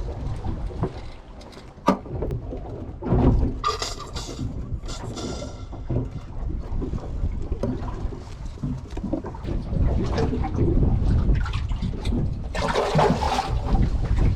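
Low, steady rumble of wind and water around a small fishing boat at sea, with scattered knocks and two louder rushing bursts, the first about three and a half seconds in and the second near the end.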